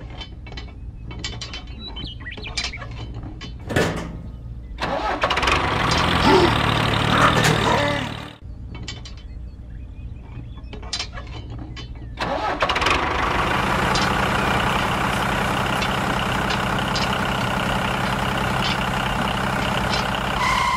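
Scattered light clicks of the model being handled, then a louder noisy stretch of about three seconds. About twelve seconds in, a steady engine sound for a miniature tractor starts and runs on evenly as it drives.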